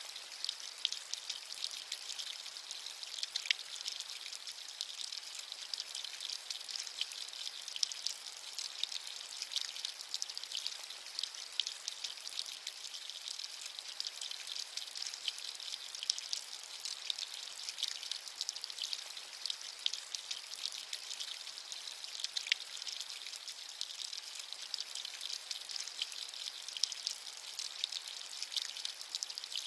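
Steady rain: a dense, even patter of many small drops making a high hiss with hardly any low rumble, with now and then a slightly louder single drop.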